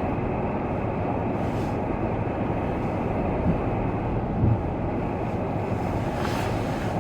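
Steady road and wind noise from a moving vehicle, with two short low thumps about a second apart near the middle.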